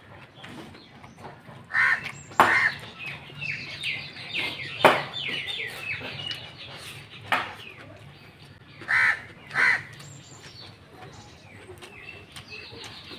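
Birds calling: two pairs of short, loud calls about two seconds in and again about nine seconds in, with a run of quick, falling chirps from a smaller bird in between and again near the end.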